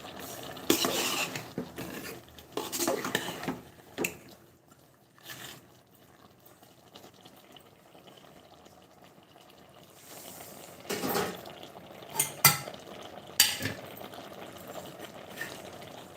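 Kitchen utensils clattering and scraping against pots and dishes in irregular bursts, with a quiet stretch in the middle and a few sharp clinks a few seconds from the end.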